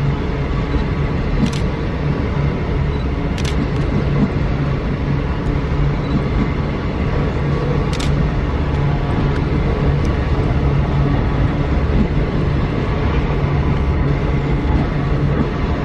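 Train running: a steady, heavy locomotive rumble with a low hum, broken by three short sharp clicks.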